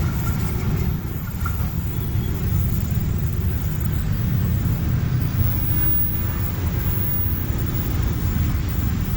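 A train passing, giving a steady, loud low rumble.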